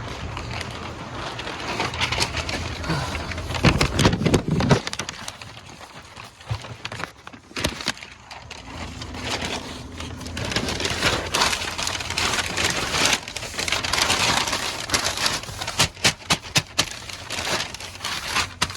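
Paper floor mat being handled and laid on a truck cab floor: uneven crackling and rustling of paper with scattered sharp clicks, loudest in two spells, over a faint low hum.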